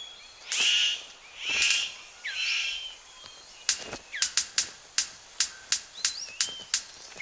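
A male superb bird of paradise displaying: three harsh, rasping calls in the first three seconds, then a quick run of sharp clicks, about three or four a second. Thin whistles of other forest birds sound behind.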